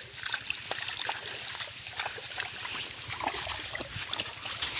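Small irregular splashes and sloshes of shallow muddy water, as hands work in a catfish hole, over a steady high hiss.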